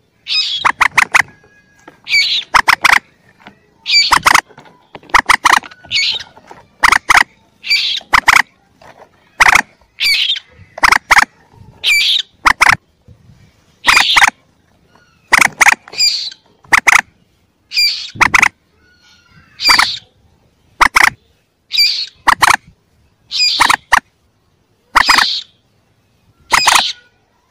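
Common moorhen chick calls from a lure recording: short sharp calls repeating about once a second, some in quick pairs.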